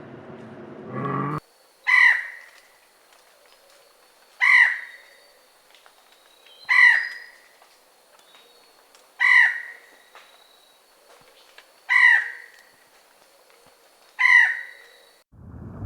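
A crow cawing six times, one harsh caw about every two and a half seconds.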